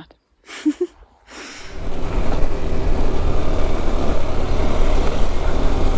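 A brief quiet, then about one and a half seconds in the steady noise of a motorcycle under way fades in. It is a KTM 390 Adventure, whose single-cylinder engine drones low beneath a rush of wind.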